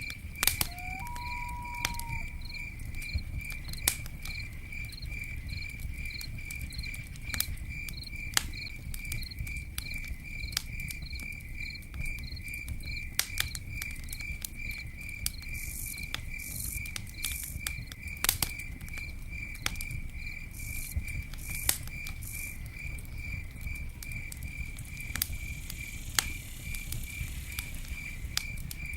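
Campfire crackling, with scattered sharp pops over a low rumble of burning wood, and a cricket chirping steadily about twice a second throughout. A single short whistled note sounds about a second in.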